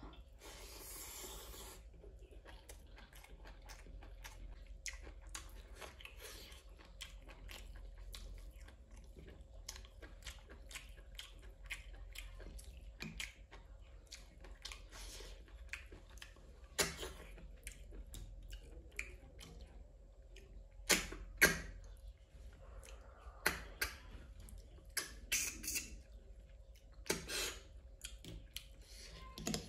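Close-miked chewing and wet mouth sounds of someone eating, with many small clicks and several louder sharp smacks in the second half.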